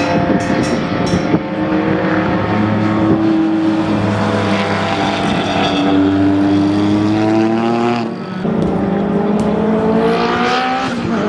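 Race car engine under hard acceleration, its pitch climbing steadily through a gear. There is a short dip about eight seconds in as it shifts up, then it climbs again.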